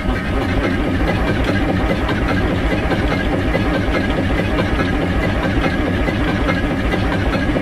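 Diesel engine idling just after a cold start, with a steady, rapid low pulsing.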